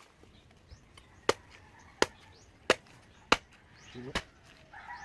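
A bolo knife chopping, five sharp blows at a steady pace about two-thirds of a second apart, typical of hacking open young coconuts.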